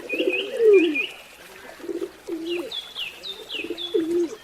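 Doves cooing, a run of low repeated coos, with high short chirps from small birds over them.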